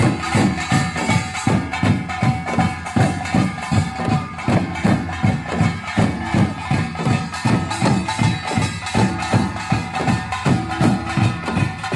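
Korean samul nori percussion ensemble, drums and gongs, playing a fast, steady beat with the gongs ringing on continuously.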